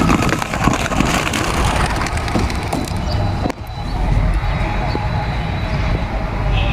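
A flock of racing pigeons bursting out of a release basket, wings clattering rapidly in a dense flurry for the first few seconds, over a steady rumble of road traffic.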